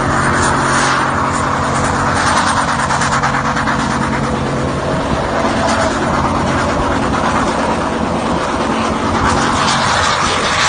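A vehicle engine running steadily, its hum dropping away about halfway through, under a loud continuous rushing hiss.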